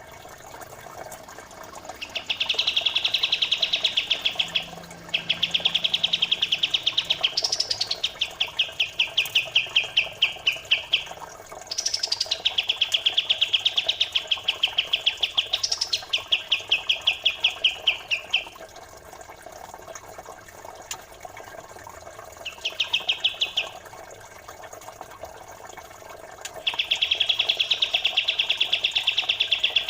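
Songbird trills for bird training: rapid, evenly pulsed trills, high-pitched, in bouts of one to several seconds with short pauses between. Trickling water runs steadily underneath.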